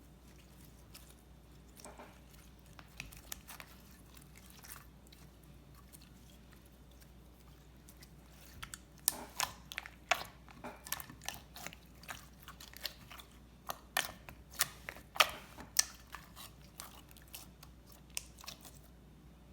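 Slime being squeezed and worked by hand, making sticky clicks and popping sounds. A few faint clicks come first, then a dense run of sharp pops about halfway in that thins out near the end.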